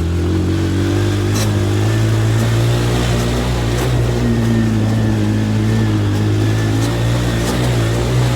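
Motorcycle taxi's engine running under load. Its pitch rises a little about two seconds in, then holds steady.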